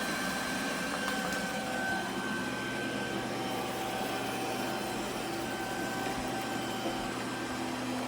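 iRobot Roomba Combo Essential robot vacuum and mop running steadily, a whirring hum with faint whining tones from its motor and brushes. It is stuck working the same small spot, unable to get up a ledge.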